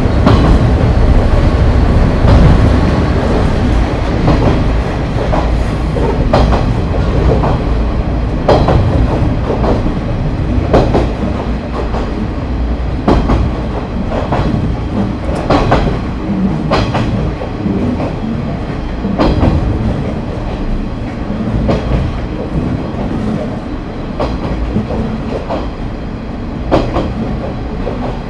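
Onboard running sound of a JNR KiHa 30 diesel railcar (KiHa 30-98), its DMH17H engine and wheels giving a steady low rumble. Sharp clacks of the wheels over rail joints come irregularly, about one every second or two.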